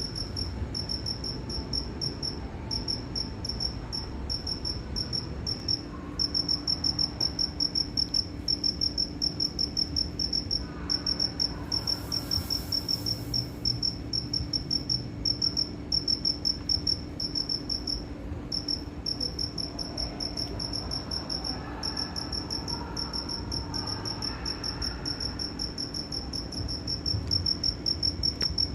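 Cricket chirping: a steady run of rapid, high-pitched pulses with brief pauses, over a low background rumble.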